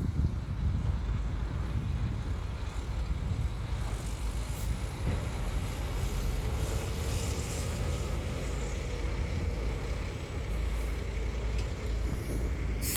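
Shantui bulldozer's diesel engine running steadily, its sound mostly deep and low, with a few faint clicks over it.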